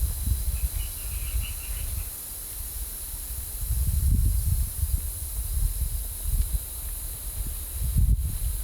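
Gusty wind buffeting the microphone: a low rumble that swells and eases, strongest about four seconds in and again near the end, over a steady high hiss.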